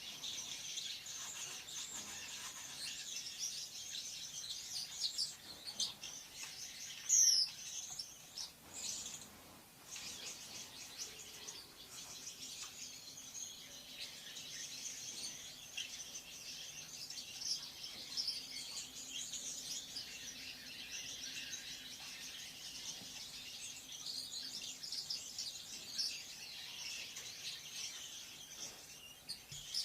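Lovebirds chattering: a continuous stream of rapid, high-pitched chirps, with one brief, loud falling squeal about a quarter of the way in.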